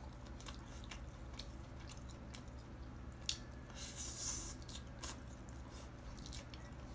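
Faint wet chewing and squelching of someone eating steamed Boston lobster, with scattered small clicks and a short scraping noise about four seconds in.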